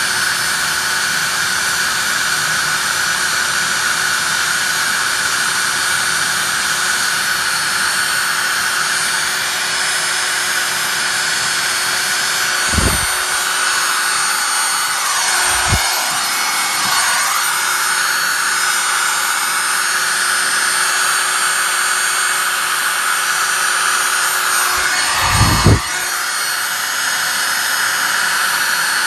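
Electric drill running continuously, with its motor whine and the rush of air from its cooling vents blown into a fireplace to fan smouldering embers into flame. A few brief low thumps come in the middle and near the end.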